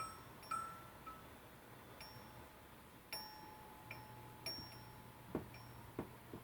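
AMAOTO rain-sound ornament giving off scattered faint tinkling pings at different pitches, irregular like raindrops, with two soft knocks near the end.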